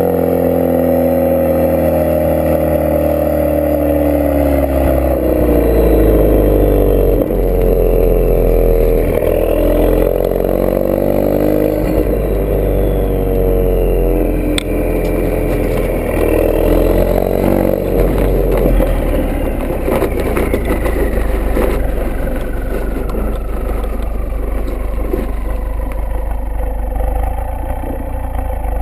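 Ford Focus RS mk3's 2.3-litre turbocharged four-cylinder engine heard through a Milltek Sport non-resonated full decat exhaust. The engine note falls and shifts in pitch through the first half, then settles into a steady low drone.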